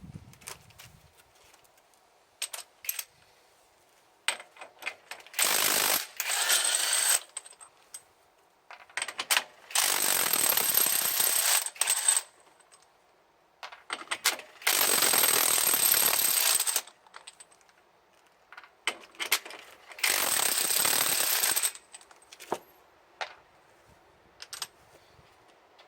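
Pneumatic impact wrench running on truck wheel lug nuts in four bursts of about two seconds each, with a high air whistle over the hammering. Clicks and clanks of nuts and sockets being handled come between the bursts.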